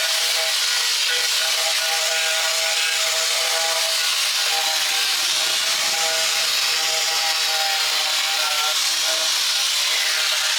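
A handheld power tool running continuously, abrading a surface with a steady harsh hiss over a motor whine that wavers slightly in pitch.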